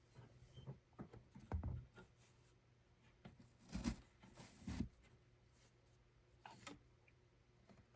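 Faint, scattered soft knocks and rubbing sounds of handwork, a few seconds apart and irregular, over a faint steady low hum.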